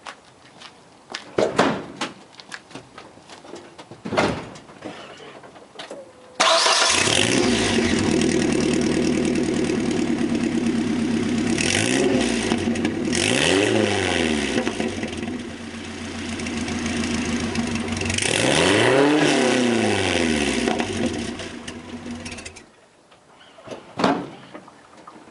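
1994 Ford Ranger engine starting, with its old exhaust and Cherry Bomb muffler: it catches about six seconds in, idles, is revved up and back down a few times, then shuts off near the end. A few knocks and clicks come before the start.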